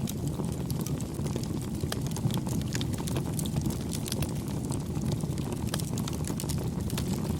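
Campfire burning: irregular crackles and small pops over a steady low rumble of the flames.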